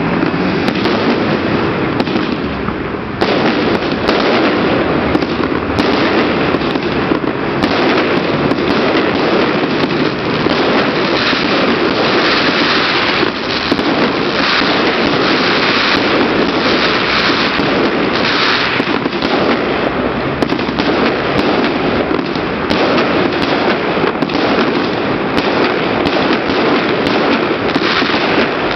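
Fireworks display: a dense, continuous barrage of bangs and crackling that runs without a break.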